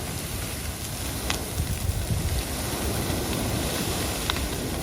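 Steady rain and wind noise with a heavy low rumble from wind buffeting the microphone, and two faint short high sounds, one about a second in and one near the end.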